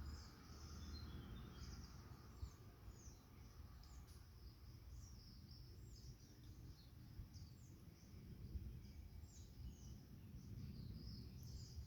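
Birds chirping faintly: many short, high, down-sliding notes repeated irregularly, over a low steady background rumble.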